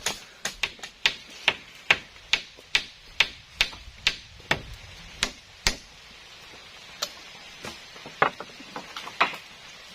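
Repeated sharp blows on wood, about two or three a second and evenly paced, then a few slower, spaced strikes near the end, from work on a wooden shelter floor.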